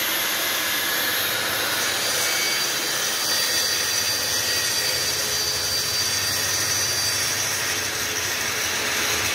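Festool TS 55 track saw running at full speed and cutting along its guide rail: a steady loud whine over cutting noise, which drops away right at the end.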